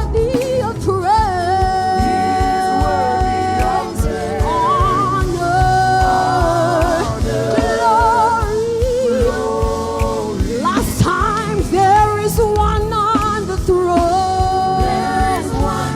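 Live gospel worship music: singing with long held, wavering notes over a band with a steady beat.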